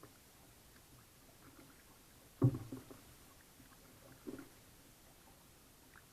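Paddling sounds from a Pelican Covert 120 kayak: two thuds against the hull, a louder one a little over two seconds in and a softer one about two seconds later.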